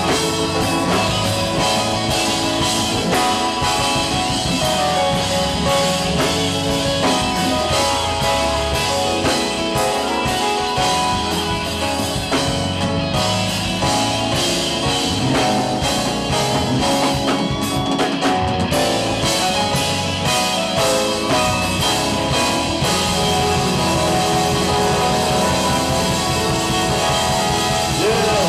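Live gospel band playing an instrumental stretch: electric guitar over a drum kit with a steady beat.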